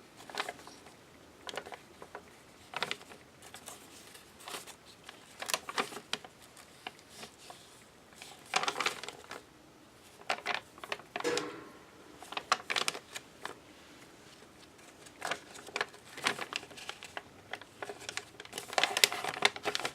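Paper pages and tags of a handmade junk journal being turned and handled: irregular short rustles and light taps with brief pauses between them.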